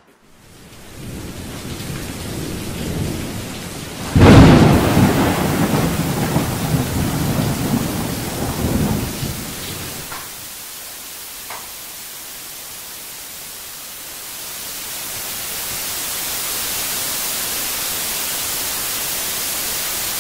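Thunderstorm sound: a low rumble builds, then a loud thunderclap about four seconds in rolls away over several seconds, over a steady rain-like hiss. The hiss swells louder in the last few seconds.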